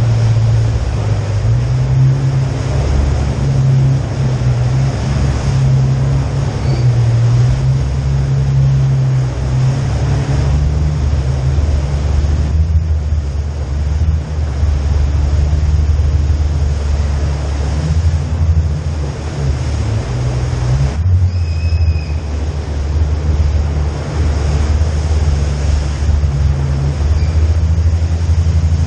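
Three Jeep engines rumbling together at low speed inside a rock tunnel, a steady deep drone that shifts slightly in pitch.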